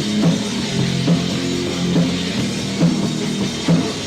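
Punk rock band playing an instrumental stretch between sung lines: distorted electric guitar, bass and a steady drum beat, with the muddy sound of a four-track demo recording.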